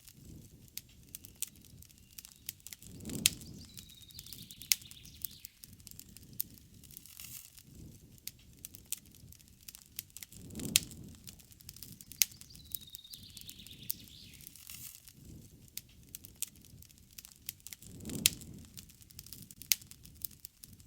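Wood campfire crackling with frequent sharp pops and a low flame rumble that swells about every seven and a half seconds. A faint bird call is heard twice.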